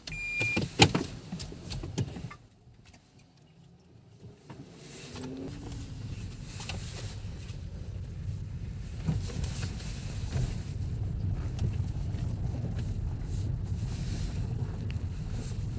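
A car's repeating warning chime ends and a couple of sharp knocks follow. The car then pulls away, and a steady low engine and road rumble builds up inside the cabin.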